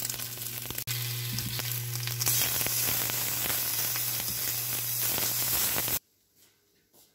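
Egg and then bacon strips frying in a pan, a dense crackling sizzle over a steady low hum. The sizzle grows louder a little over two seconds in and cuts off suddenly at about six seconds, leaving only a few faint ticks.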